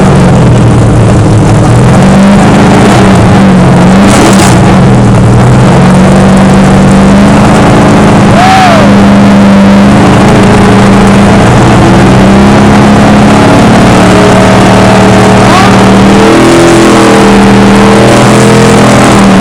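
NASCAR Ford Fusion race car's V8 engine running very loud while warming up after a cold start, its revs blipped up and down repeatedly.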